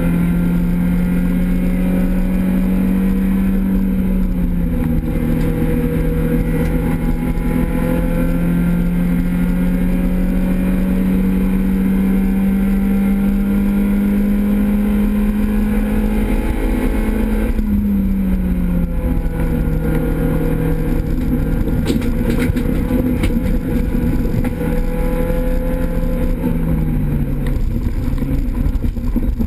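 Renault Clio 16S rally car's engine heard from inside the cabin, running hard at high revs. Its pitch drops about four seconds in, climbs slowly, falls sharply about two thirds through and drops again near the end. A few sharp clicks sound shortly after the second drop.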